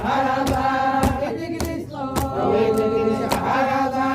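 Chanted vocals over a steady drum beat of about two strikes a second.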